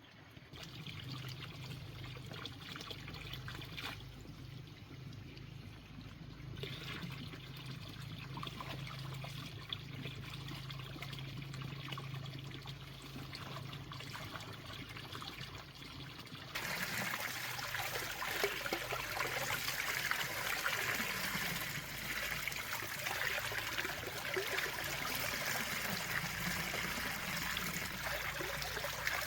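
Water trickling and running steadily, suddenly louder and brighter about two thirds of the way in.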